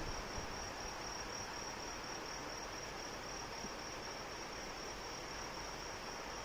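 Steady rain falling, with one insect's high, unbroken trill running over it.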